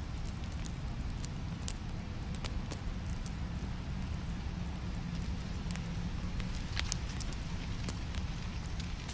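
Fireplace fire burning with a steady low rumble and irregular sharp crackles and pops.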